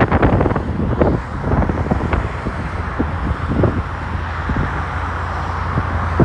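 Wind buffeting the camera's microphone: a steady low rumble with crackling gusts that ease off about a second in and pick up again at the end.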